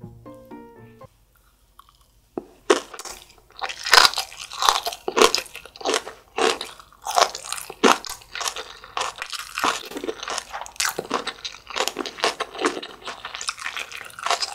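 Close-miked crunching as fresh napa cabbage kimchi (geotjeori) is chewed, a crisp crunch every half second or so, starting a couple of seconds in.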